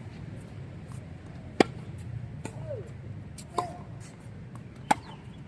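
Tennis balls struck by rackets in a rally: three sharp hits about a second or so apart, the loudest about a second and a half in.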